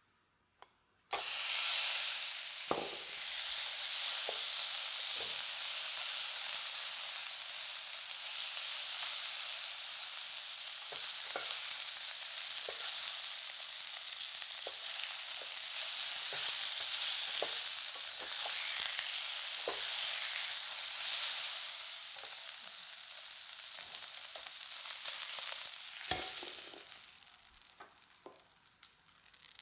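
Bacon sizzling as it fries in a hot pan: a steady hiss, with occasional clicks of a utensil against the pan. It starts about a second in and dies down near the end.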